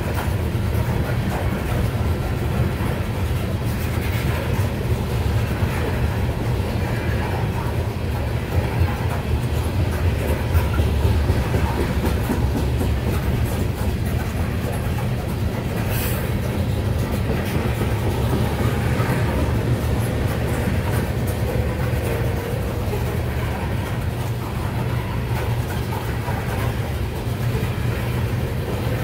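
Loaded coal hopper cars of a freight train rolling past: a steady low rumble of steel wheels on rail with repeated clicks as the wheels cross rail joints. One sharp metallic clank sounds about sixteen seconds in.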